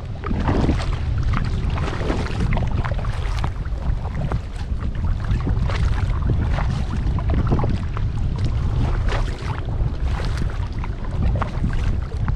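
Kayak paddle strokes dipping and splashing in lake water, with water dripping and lapping in many short, irregular splashes. Under them is a steady low rumble of wind on the microphone.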